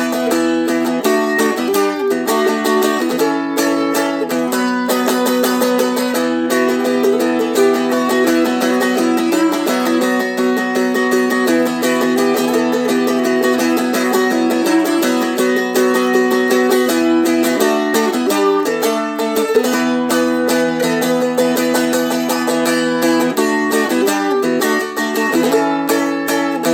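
Seagull Merlin M4, a four-string fretted dulcimer, strummed rapidly with a flatpick: a melody picked out over steady droning strings.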